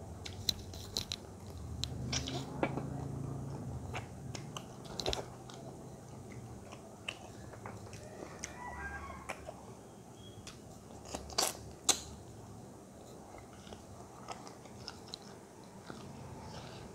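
Close-miked chewing and biting of chicken wings and maize dhido eaten by hand, wet mouth sounds with scattered sharp crunching clicks, the two loudest close together about two-thirds of the way through.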